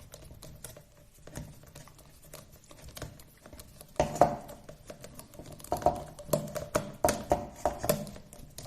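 Small clicks and scrapes of a metal screw being driven by hand into the plastic suspension parts of a 1/16 RC drift car, turning louder and busier about four seconds in.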